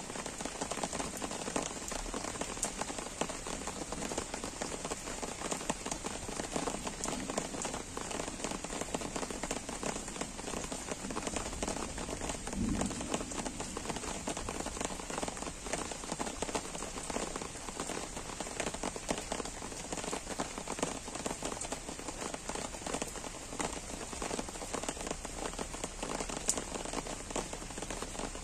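Gentle, steady rain falling, with many individual drops ticking close by.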